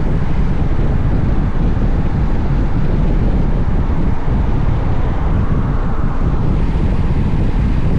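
Steady low wind roar on the camera microphone of a moving Honda X-ADV motorcycle, with the bike's running noise mixed in beneath.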